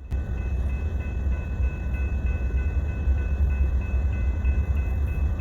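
Norfolk Southern freight train passing close by: a steady deep rumble, with a faint high ringing that ticks about four times a second over it.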